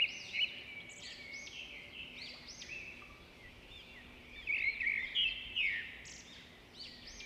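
Birds chirping and calling, many short arched notes overlapping, louder about halfway through.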